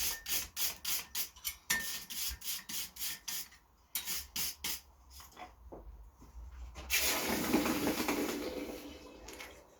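A fast run of sharp scraping or tapping strokes on a small forged steel S-hook, about four to five a second, pausing and then a few more; about seven seconds in, a loud sizzling hiss that dies away over two or three seconds, the hot steel being quenched in water.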